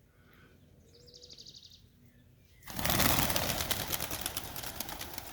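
Pigeons suddenly startled into flight: a sudden burst of wing flapping about two and a half seconds in, slowly fading as they fly off.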